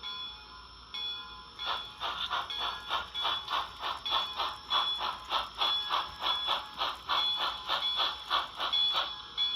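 Sound decoder of a DCC-equipped HO-scale steam locomotive playing through its small speaker: the engine bell rings steadily, and about one and a half seconds in steam chuffs start at about two and a half a second as the model backs up slowly, stopping near the end.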